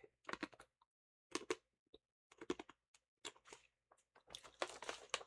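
Faint, scattered short clicks and crunches, a dozen or so irregularly spaced, with near silence between them.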